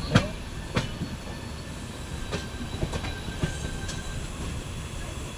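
Moving Indian Railways express train: a steady running rumble broken by sharp, irregular clanks, the loudest just after the start. A faint high wheel squeal runs through the middle.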